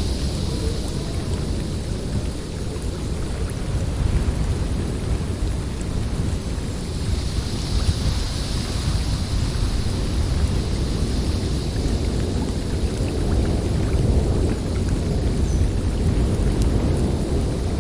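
Snowstorm wind blowing steadily, with a deep rumble and a higher hiss that swells near the start and again about eight seconds in.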